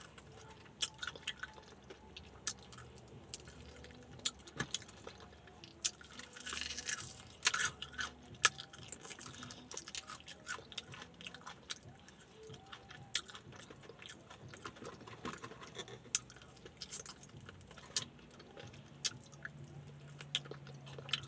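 A person biting and chewing crispy fried chicken: quiet, irregular crunches and mouth clicks, busier about six to eight seconds in.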